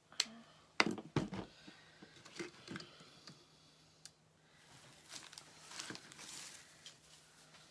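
Craft materials being handled: crinkling and rustling with a few sharp taps and knocks, the strongest about a second in.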